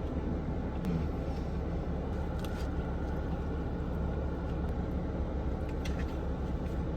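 Steady low background rumble with a few faint crisp clicks, the sound of chewing a taco, about two and a half and six seconds in.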